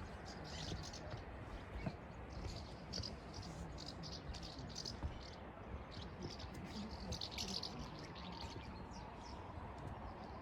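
Small birds chirping repeatedly over a steady background rush.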